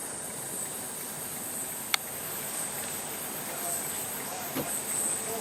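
Insects in tropical rainforest trilling steadily in a high-pitched shrill chorus that swells and fades in slow pulses. A single sharp click about two seconds in.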